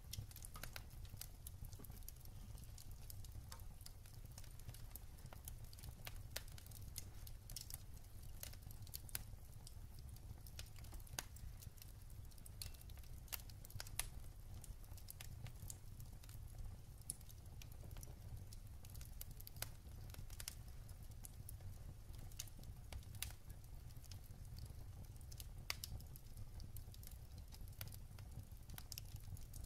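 Wood fire in a fireplace crackling faintly: scattered sharp pops and ticks from the burning logs over a steady low rumble.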